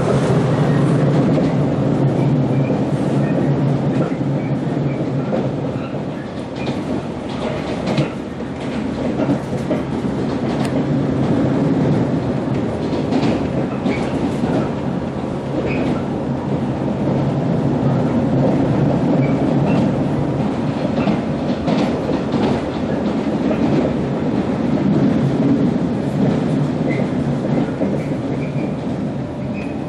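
Running sound of a JNR-type 115 series electric train heard from a box seat inside the car: a steady hum from the MT54 traction motors and wheels on the rails, with scattered clicks over the track.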